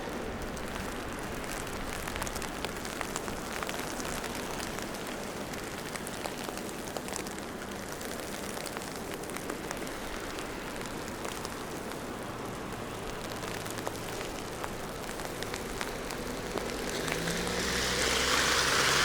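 City street ambience in falling wet snow: a steady hiss with fine irregular pattering. Near the end a vehicle passes, its hiss swelling louder over a low engine tone.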